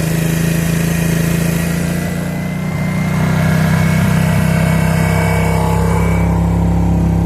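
Suzuki King Quad ATV's single-cylinder engine running steadily. Its note dips slightly about two and a half seconds in, then comes back up and holds.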